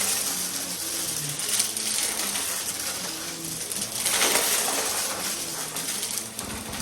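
Vacuum cleaner running: a rushing hiss of air over a wavering motor hum, with the hiss swelling about four seconds in.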